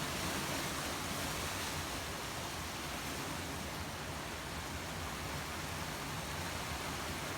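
Steady rushing noise of hurricane wind, an even hiss with no separate events.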